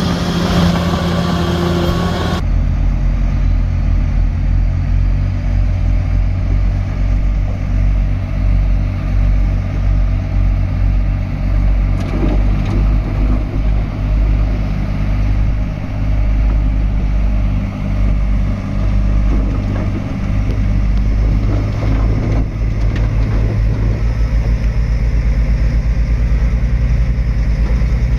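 Heavy diesel engine of a Shantui DH17C3 bulldozer running steadily with a deep low rumble. The sound changes abruptly about two seconds in.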